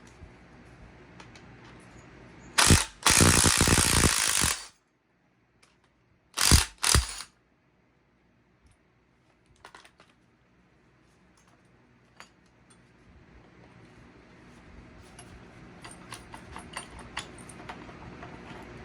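Ratchet wrench ratcheting in quick bursts: one loud run of about two seconds, then a short double burst, followed later by faint scattered clicks.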